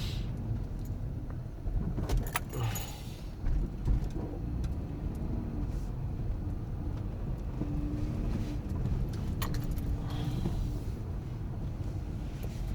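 Dodge Grand Caravan heard from inside the cabin while driving slowly: a steady low engine and tyre rumble, with bursts of jangling and rattling about two to four seconds in and again later as it rolls over speed bumps.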